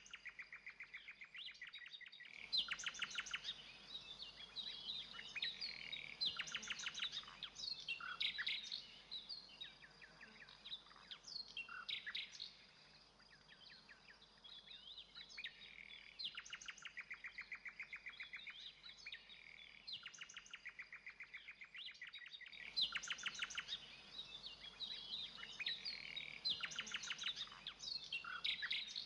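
A songbird singing in varied phrases of rapid repeated notes, trills and whistles, with brief pauses between phrases.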